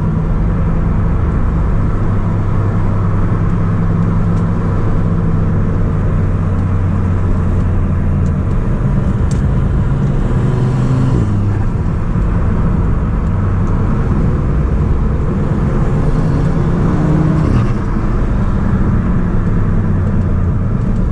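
Audi S3 8P's turbocharged 2.0 TFSI four-cylinder engine with an aftermarket downpipe, running steadily under way on a drive. Its engine note changes pitch a few times.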